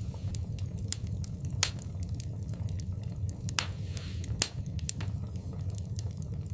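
Wood fire crackling in an open fireplace: a steady low rumble of flames with scattered sharp pops and snaps, three louder ones about a second and a half, three and a half, and four and a half seconds in.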